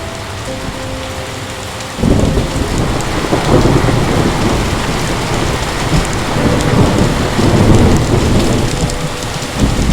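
Heavy rain falling steadily, with a roll of thunder breaking in suddenly about two seconds in and rumbling on, swelling and easing.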